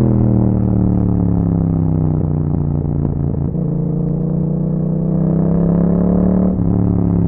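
2021 Yamaha MT-07's parallel-twin engine through an Akrapovic exhaust, heard while riding: the engine note falls for the first few seconds as the bike slows, then rises again under acceleration, with a brief break about six and a half seconds in as it shifts gear.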